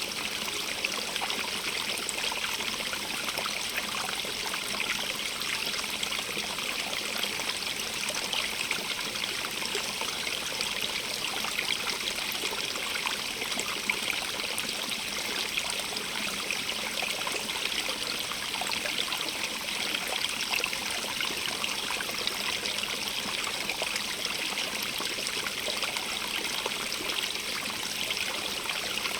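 Stream of water running and trickling over rocks, a steady splashing rush with no change.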